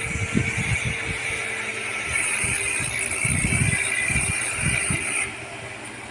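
Tractor engine running, with rattling; the sound drops a little about five seconds in.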